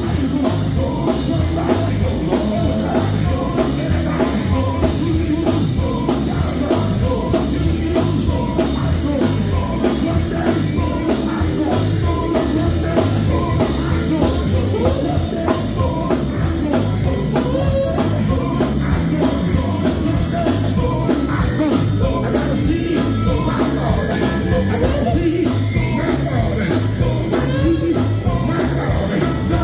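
A live gospel band plays with a drum kit and singing over a steady beat.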